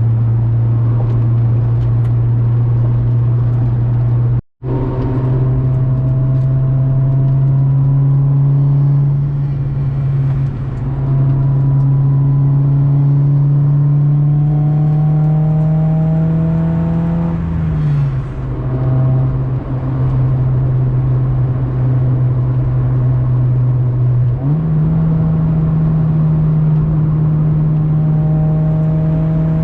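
Acura Integra GS-R's B18C1 1.8-litre VTEC inline-four running through an aftermarket Yonaka exhaust while driving uphill, the revs climbing steadily under load. The revs drop sharply about 18 seconds in and jump back up about 24 seconds in. The sound cuts out for a split second about four seconds in.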